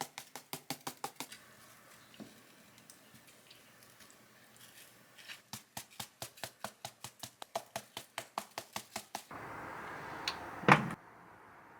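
Knife chopping quickly on a wooden cutting board, about five even strokes a second, in two runs. Near the end a short rush of steady noise with one loud knock.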